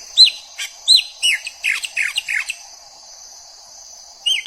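Chopi blackbird (graúna) singing: a quick run of loud, clear whistled notes, many sliding down in pitch, for about two and a half seconds. It pauses, then starts again near the end, over a faint steady background hum.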